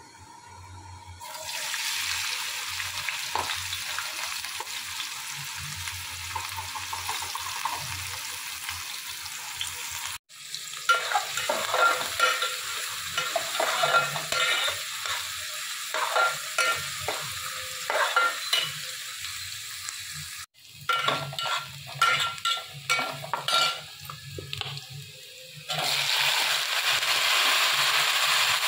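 Food frying in hot oil in a steel pot: a steady sizzle, then sliced onions stirred with a metal spoon that scrapes and clicks against the pot. Near the end, a louder, steady sizzle as diced raw potatoes fry.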